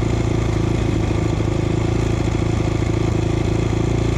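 2007 450R motocross bike's single-cylinder four-stroke engine idling steadily and not cutting out when the kill switch is pressed: the kill switch stopped working after new handlebars were fitted.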